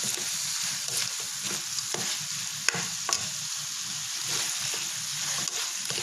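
Fried chicken pieces being stirred into sweet and sour sauce in a pan: a steady sizzle, with the utensil clicking and scraping against the pan and one sharper knock about two and a half seconds in.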